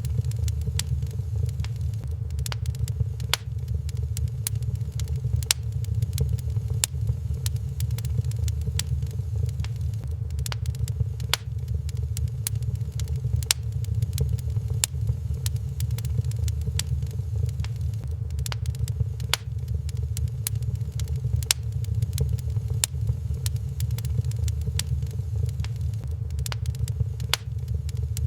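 Wood fire crackling in a fireplace: frequent sharp pops and snaps, irregular, over a steady low rumble.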